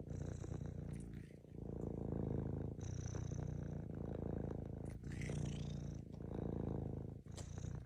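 Domestic cat purring: a steady, rough low rumble that swells and dips in stretches of about one to two seconds, following its breathing.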